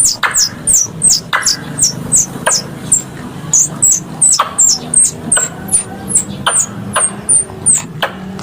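Squirrel lure call: a quick series of short, high chirps, each falling in pitch, about three a second, with a sharp click roughly once a second among them.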